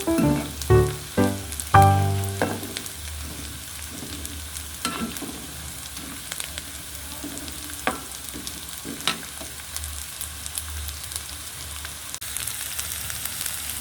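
Tempeh sizzling as it fries in oil in a wok, with scattered clicks of a spatula against the pan. The sizzle gets louder and brighter near the end.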